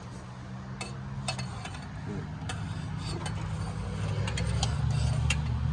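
Scattered metallic clicks and clinks as a Honda Civic's broken half shaft is twisted and pulled out of the transmission, over a steady low machine hum that grows louder through the second half.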